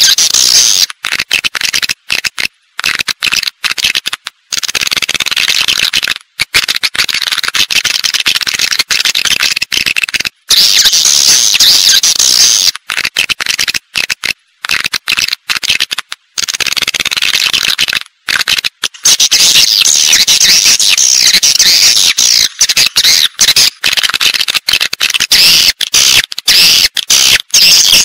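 Dense, high-pitched twittering chirps of swiftlets, a recorded swiftlet call used as a lure to draw the birds into a swiftlet house to roost and nest. The sound is broken by many abrupt, brief dropouts.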